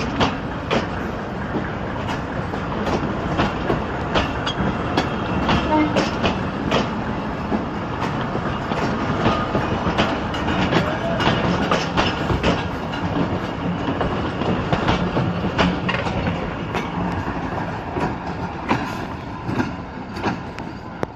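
Passenger coaches of a departing express train rolling past, their steel wheels clicking and clacking over the rail joints over a steady rolling noise.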